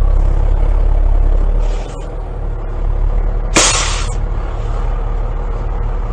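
Heavy vehicle engine running with a steady low rumble, and a short loud hiss of released air about three and a half seconds in.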